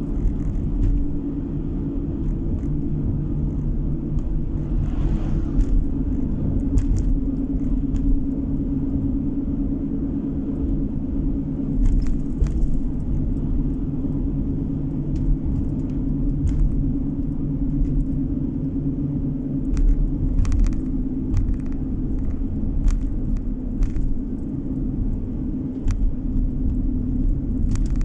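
Car engine and tyre noise heard from inside the cabin while driving: a steady low rumble with an even hum, broken by a few short knocks or rattles from the road.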